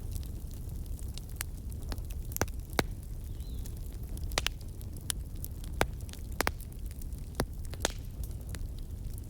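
Wood fire crackling: irregular sharp pops and snaps, a couple of them louder, over a steady low rumble of the flames.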